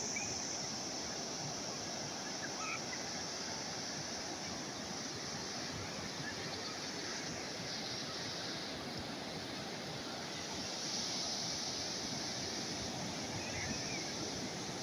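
Calm sea waves washing ashore: a steady hiss of surf that swells gently a couple of times.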